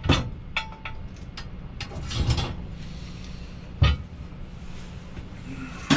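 Scrap metal being handled and dropped: several sharp metal clanks, one ringing briefly, and a heavy thump about four seconds in, over a steady low engine hum.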